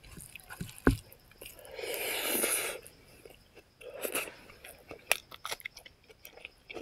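Close-miked mouth sounds of a person eating pig feet and rice: chewing, wet lip smacks and sharp clicks. A longer breathy rush comes about two seconds in, and the clicks come thick and fast over the last two seconds.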